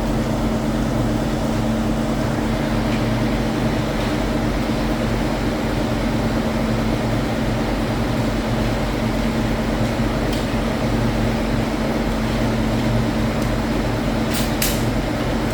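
Factory machinery running with a steady hum and constant low tones, with a few faint clicks near the end.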